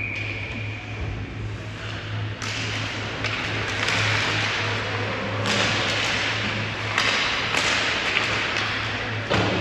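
Ice hockey play: skates scraping the ice, with several sharp clacks and thuds of sticks, puck and boards, over a steady low hum.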